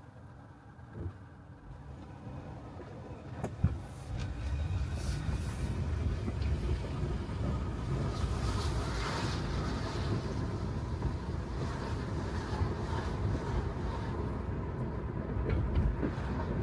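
Tyres of an electric Tesla Model 3 rolling on a wet road, a low rumble with hiss, with no engine note. It swells over the first four seconds as the car gets going, then holds steady. There is a sharp tick about three and a half seconds in.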